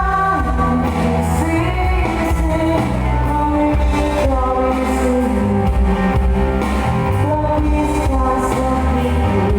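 Live band music with a strong, steady bass and a held, sliding melody line, with singing.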